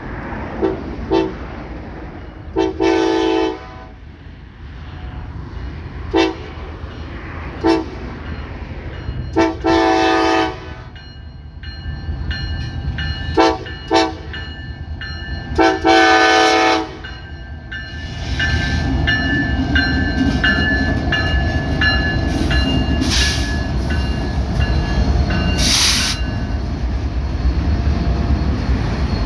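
Kansas City Southern freight locomotive sounding its multi-chime air horn in a repeated pattern of two short blasts and one long blast, three times over, as the train approaches. From about two-thirds of the way in, the train passes close with a steady, louder rumble of locomotive engine and wheels, broken by two brief hissing bursts.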